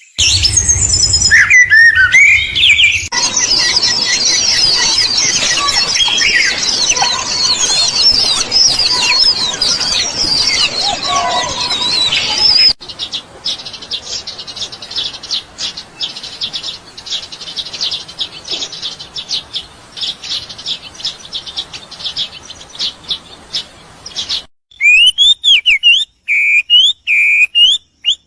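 Songbirds chirping and calling. A dense chorus of high chirps runs for about twelve seconds, switches abruptly to a fast run of short chirps, and near the end gives way to separate clear whistled notes, each rising, with short gaps between them.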